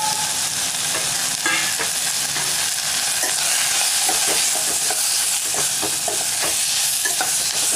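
Tomatoes, onions and spice powders sizzling in hot oil in a pan while a spoon stirs and mashes them, with frequent short scrapes and taps of the spoon against the pan.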